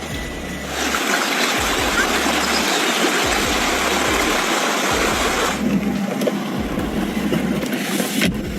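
Steady rushing of flowing floodwater. About two-thirds of the way through it becomes duller and lower.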